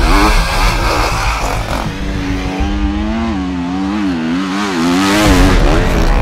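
Enduro motorcycle engines being revved hard as riders climb steep dirt and sand hills; the engine pitch rises and falls repeatedly with the throttle, most clearly in the middle.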